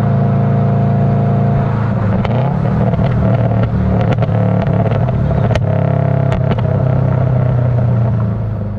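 Subaru Legacy GT's turbocharged flat-four running at steady revs through a catless, straight axle-back exhaust with 5-inch mufflers, with scattered sharp pops and crackles from its burble tune through the middle. The sound fades out near the end.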